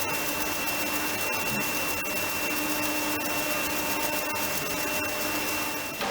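A machine running steadily, with a constant high whine over an even rushing noise and faint scattered ticks.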